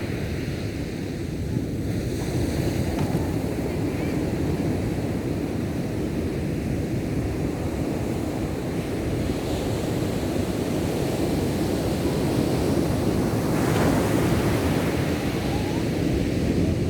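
Ocean surf: waves washing and breaking on the shore in a continuous rumbling wash, with one wave breaking louder about three-quarters of the way through. Wind buffets the microphone.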